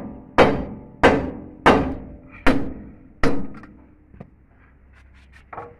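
Heavy hammer blows on steel, knocking the king pin out of a JCB backhoe loader's front axle spindle: six strikes about two-thirds of a second apart, each with a short metallic ring, then a few light knocks and one last dull thunk near the end.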